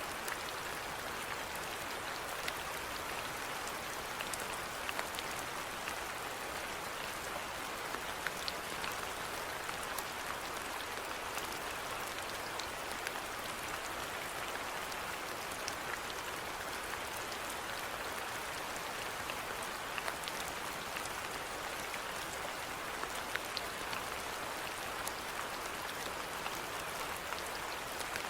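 Steady rainfall, with the ticks of individual drops scattered through an even hiss.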